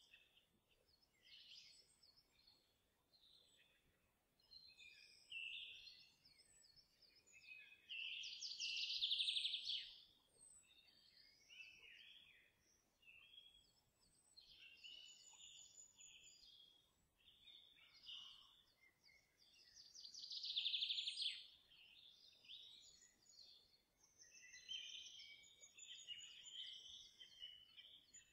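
Faint birdsong: several birds chirping and whistling on and off, with two louder rapid trills about nine and twenty-one seconds in.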